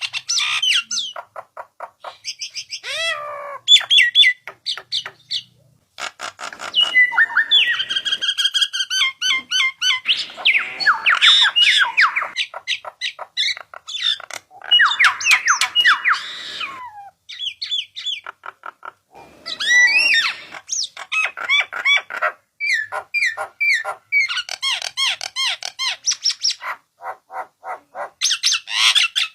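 Starling (jalak) song: a fast, varied string of whistles, chattering trills, clicks and harsh squawks in phrases with short pauses. This is a 'pancingan' call, played to provoke caged starlings into answering and singing.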